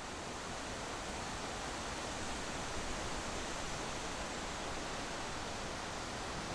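Steady rushing wind and road noise from a moving vehicle on the road, an even hiss with no engine note or breaks.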